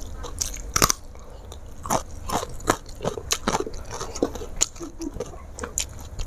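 Close-miked chewing of crunchy food: a string of sharp, irregular crisp crunches, about one or two a second, the loudest about a second in.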